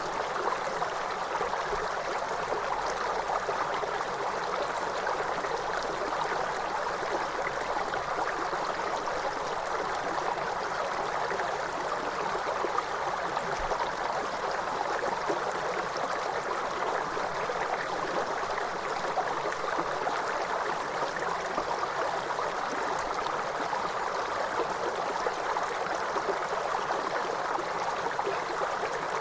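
Waterfall: a steady, unbroken rush of falling water, its sound concentrated in the middle range with little deep rumble.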